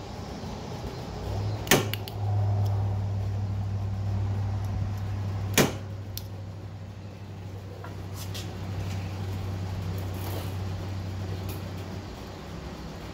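An electrical part on a Wen D6000 diesel generator humming steadily after being plugged in with the key left on, so it is energised and working. The hum starts about two seconds in and dies away near the end, with two sharp clicks, one as it starts and one about four seconds later.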